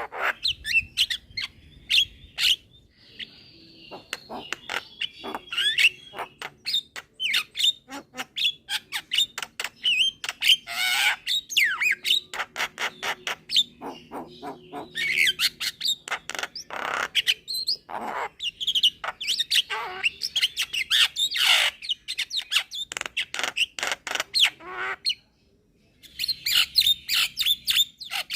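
Young Javan myna calling without let-up: a fast, varied run of harsh squawks, sharp clicks and whistled notes, with a short break about 25 seconds in.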